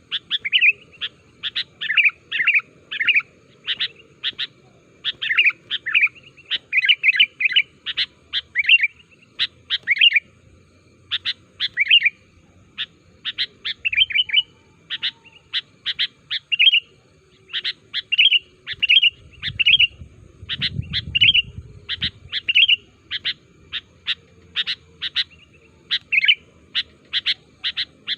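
Sooty-headed bulbul (kutilang) calling busily: a continuous run of short bright chirps, several a second, bunched into quick chattering phrases.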